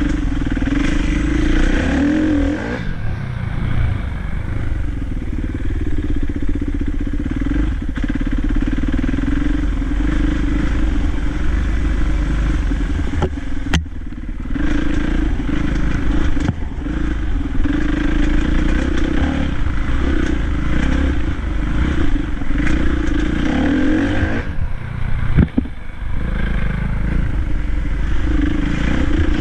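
Dirt bike engine running under riding load, its pitch repeatedly rising and falling as the throttle opens and closes, with a heavy low rumble and a couple of sharp knocks from the bike over the terrain.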